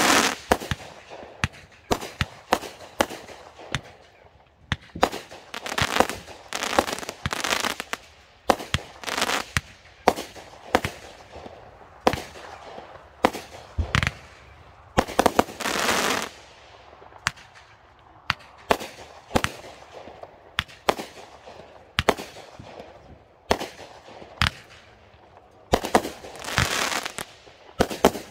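Consumer firework cakes firing in a chain: a long run of sharp bangs at an uneven pace, broken by several stretches of loud crackling hiss.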